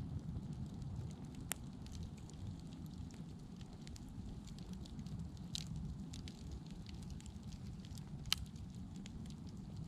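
Wood fire burning with a low, steady rumble and scattered sharp crackles and pops, two louder ones about a second and a half in and near the end.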